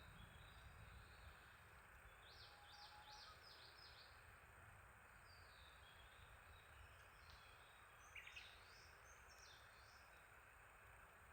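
Faint songbirds singing over a steady hiss: short high chirps, a quick run of several descending notes a few seconds in, and more calls later on.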